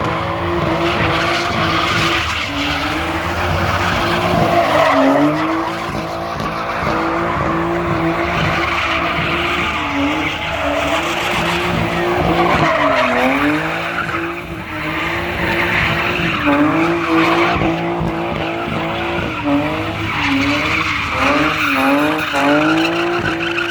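A car engine held at high revs while the tyres spin and squeal. The engine note repeatedly dips and climbs back, the dips coming quicker toward the end, under a continuous screech of tyre rubber.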